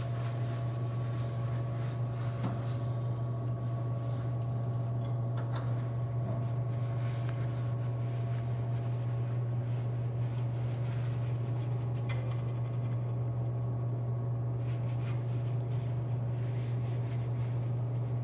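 A steady low hum that carries on without change, with faint scratching and light clicks of a microwave plate and ring being wiped with paper towels.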